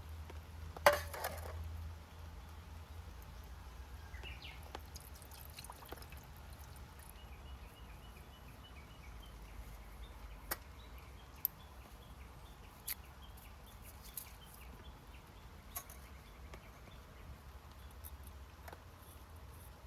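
Wood fire in a fire pit crackling, with one loud sharp pop about a second in and a few scattered pops after it.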